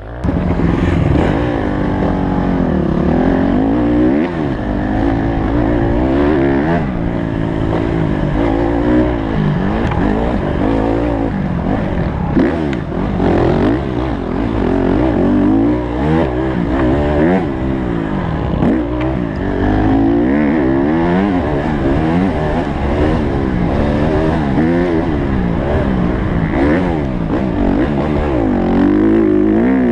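Honda CRF150 motocross bike's four-stroke single-cylinder engine revving up and down over and over as it is ridden, its pitch rising and falling every second or two.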